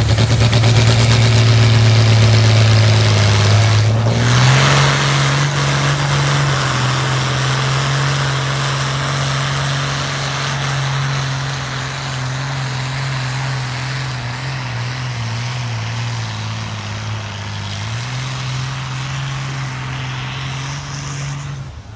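Farm tractor engine running hard under load on a pull, its pitch stepping up about four seconds in and then holding steady while it slowly fades, until it cuts off at the end.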